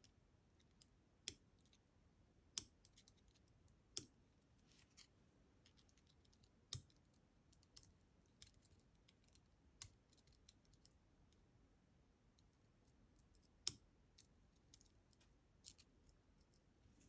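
Scattered small metal clicks and ticks, a dozen or so at irregular intervals: the discs and spacers of a DOM Diamant disk detainer lock being worked out of their tight-fitting shell one by one.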